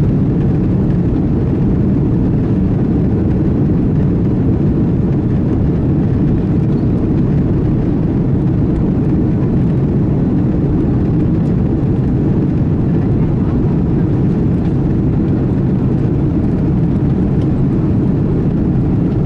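Airbus A330 at takeoff thrust heard inside the passenger cabin: a steady, deep rumble of jet engine and air noise.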